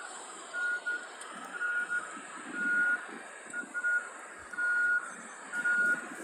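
Electronic alarm beeping at one steady pitch, about once a second, over a steady rushing background.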